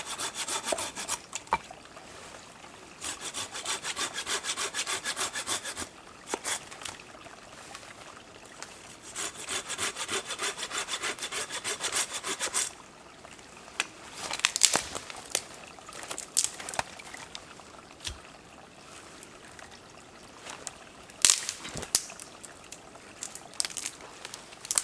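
Hand saw cutting through wood in three bouts of quick, even strokes, about three a second, followed by a few scattered sharp knocks and cracks of wood being handled.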